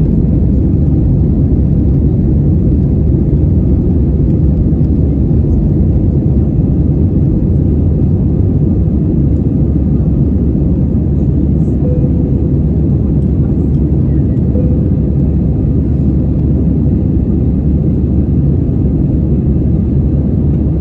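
Steady low roar of an Airbus airliner's jet engines and airflow heard from inside the cabin during takeoff, with a faint steady hum through it.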